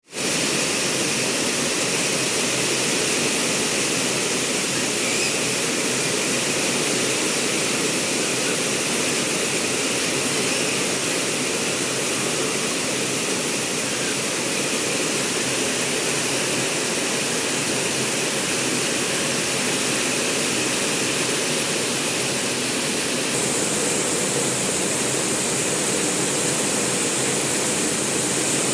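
Heavy rain falling steadily, a loud, even hiss that turns a little brighter about three quarters of the way through.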